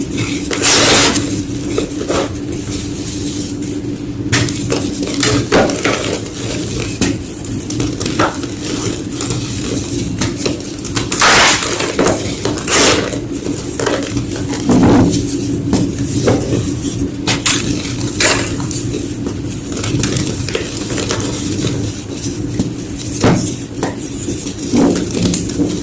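Soft white gym chalk being crunched and crushed, a run of irregular crisp crunches and crumbling clicks, a few of them louder and longer. A low steady hum runs underneath.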